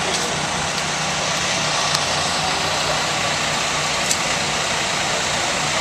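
Truck engine idling steadily, a low hum under a constant hiss of noise, with a couple of faint ticks.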